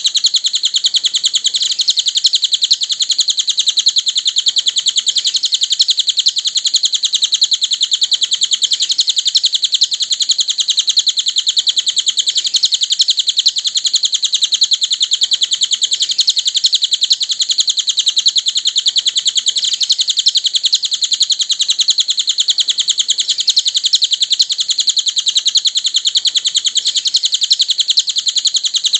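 Cililin bird song: a continuous, very rapid run of high chirps that does not let up, the kind of looped recording played as masteran to teach captive songbirds.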